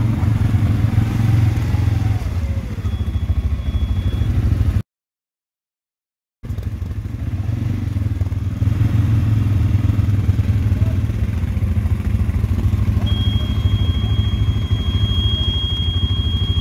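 ATV engine running steadily under way, broken by a sudden silent gap about five seconds in, then running on; a steady high-pitched tone joins it from about thirteen seconds.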